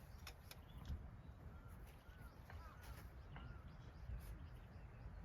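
Faint outdoor ambience with small birds giving a few short chirps in the middle, over a steady low background rumble and a few faint clicks.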